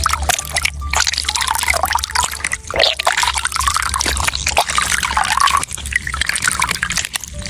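Liquid rubber latex pouring and dripping into a container, a continuous irregular splashing trickle.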